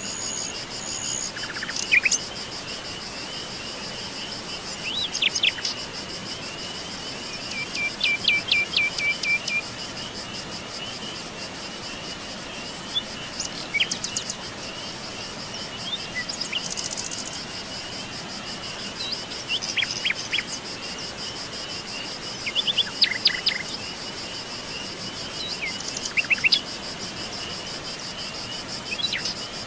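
Forest birds giving scattered short, sharp calls, including one quick run of about ten even notes, over a continuous high, fast-pulsing insect chorus.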